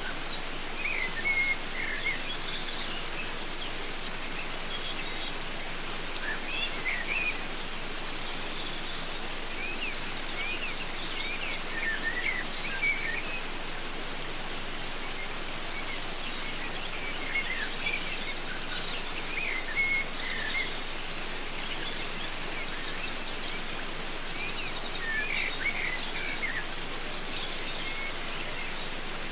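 Steady rush of a waterfall, with small birds chirping and calling over it in short bursts every few seconds.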